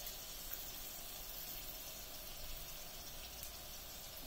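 Faint, steady sizzle of chopped onions, green chillies and carrots frying in oil in a pan.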